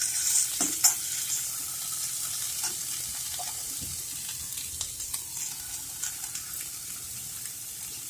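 Freshly added chopped water spinach (nari saag) and fried urad dal sizzling in hot oil in a kadhai as they are stirred together with a perforated metal spatula. The sizzle is a steady hiss, and the spatula clicks sharply against the pan a few times in the first second.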